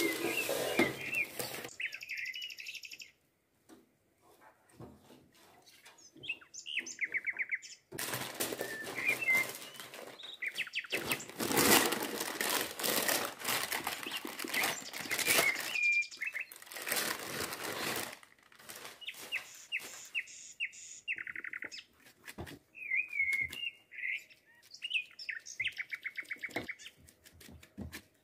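A small bird chirping and trilling in short, high, quick phrases again and again, over loud bouts of crinkling baking paper as a sheet of rolled dough on parchment is lifted into a metal baking pan.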